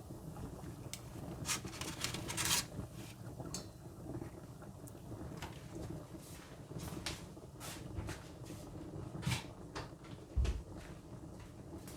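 Kitchen handling noises: scattered sharp clicks and knocks, a quick cluster of them about two seconds in, over a steady low hum.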